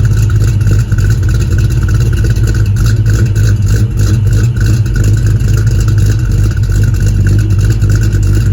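1995 Ford Mustang engine idling steadily, still warming up after a cold start.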